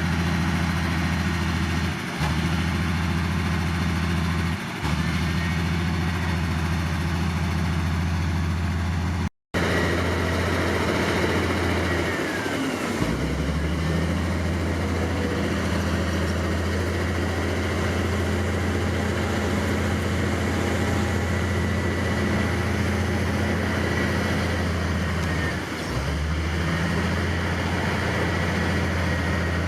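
Heavy diesel engine of earthmoving machinery running steadily, with a faint high whine above it. The engine note sags briefly a few times, most markedly about 12 to 13 seconds in, and the sound cuts out for a moment about nine seconds in.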